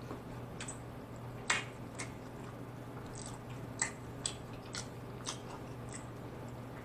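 Close-up mouth sounds of a person chewing a Chicago-style Polish sausage sandwich: soft wet clicks and smacks at an irregular pace, about one or two a second, over a faint steady low hum.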